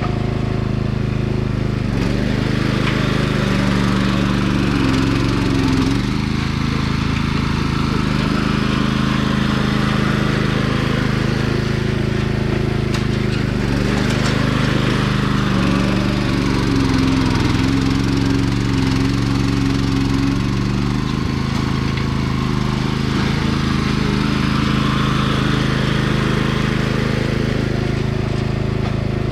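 Sears 10XL garden tractor's engine running steadily under load while pushing dirt, its pitch shifting slightly now and then as the load changes.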